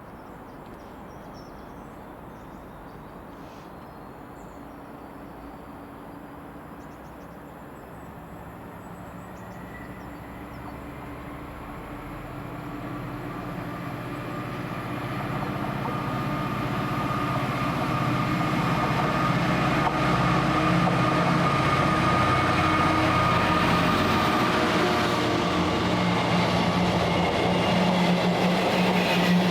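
Train approaching on the line: a low rumble that grows steadily louder over about twenty seconds, then stays loud and steady as the train runs past.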